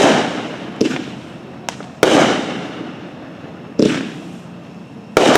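A consumer firework cake, a 300-gram gender-reveal cake, firing about five sharp bangs at uneven intervals, each trailing off over a second or so.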